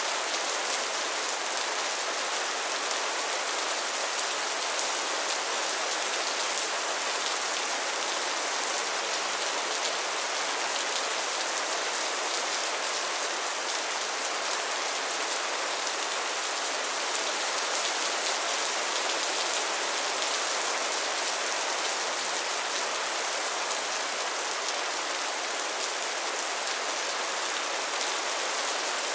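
Steady rain falling on a surface, a dense even hiss of drops with fine patter throughout.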